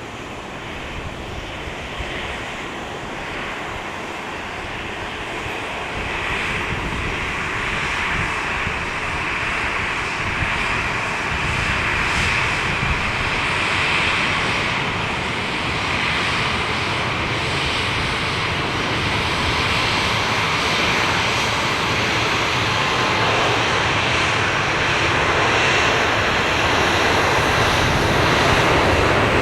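Airliner engines, a steady rushing noise that grows gradually louder as the plane draws nearer.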